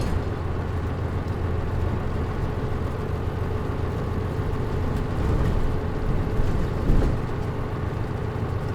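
Interior running sound of a Mitsubishi Fuso Aero Star KL-MP37JM non-step city bus with automatic transmission: its diesel engine runs steadily with a low drone, the air conditioning off. There is a short knock about seven seconds in.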